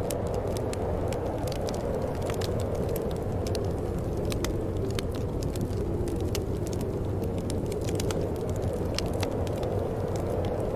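Wood fire burning in a fireplace: a steady low rumble with frequent irregular crackles and small pops.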